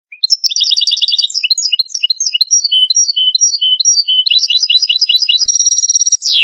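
European goldfinch song: one continuous phrase of fast twittering trills and repeated high notes, ending in a quick falling note.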